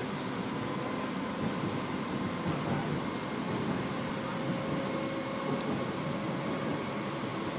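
Steady running noise inside a PATCO rapid-transit car rolling along elevated track, a constant rumble with a faint steady whine over it.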